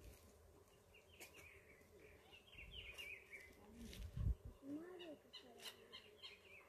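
Faint birds chirping in short, quick phrases, with a brief low bump a little past the middle.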